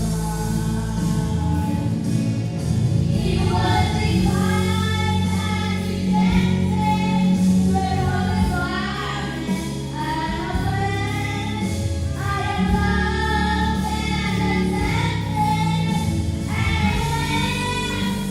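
A choir singing a gospel song over an instrumental accompaniment with a steady low bass. The voices come in about three seconds in and carry on in phrases of a few seconds each.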